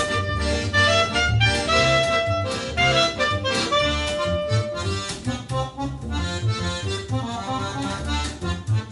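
Live instrumental music: an accordion playing a melody of held notes over bass notes and plucked accompaniment, the held melody notes thinning out about halfway through.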